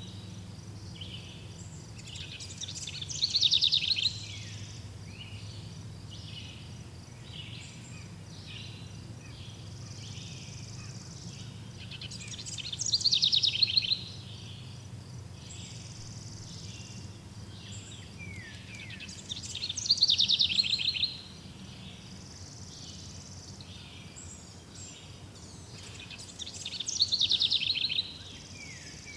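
Wild bird song: one bird sings a loud, rapid trilled phrase that builds and cuts off abruptly, four times, about every seven seconds. Underneath is a steady bed of soft high chirps and a low steady hum.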